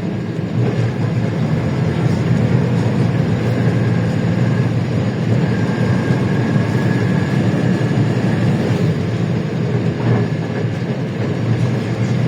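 LiAZ-677M city bus running under way, its V8 petrol engine giving a steady, deep drone with a faint whine above it.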